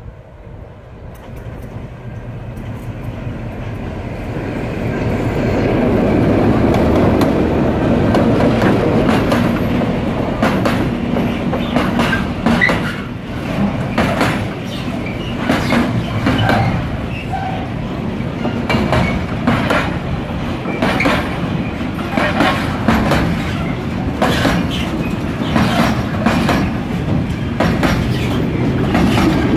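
Freight train hauled by a class 661 diesel locomotive approaching and passing close by, growing louder over the first six seconds. Its freight wagons then roll past with a steady rumble and repeated sharp wheel clicks over the rail joints.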